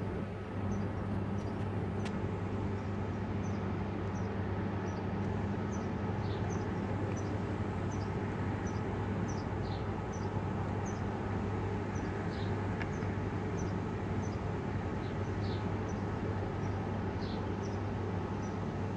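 Steady low hum and rumble of background noise, with a small bird repeating short high chirps about every half-second and now and then a longer falling note.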